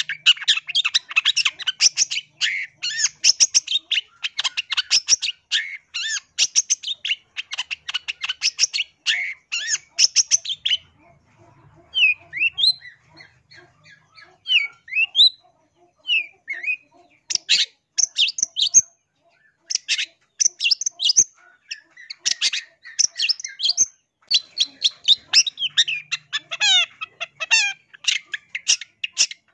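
Long-tailed shrike (cendet) singing: a fast, dense run of short high chattering notes, thinning about a third of the way in to a few separate gliding whistles, then picking up into the rapid chatter again.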